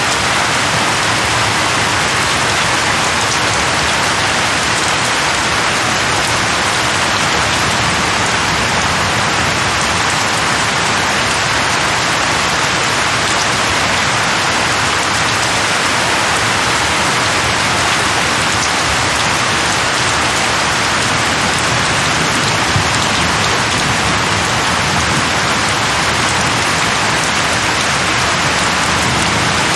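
Heavy rain pouring steadily, an even hiss of water with no breaks.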